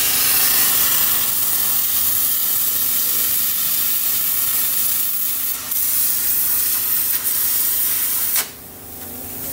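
A cutting torch hissing steadily as it burns off old exhaust parts under a truck, then shutting off abruptly about eight seconds in.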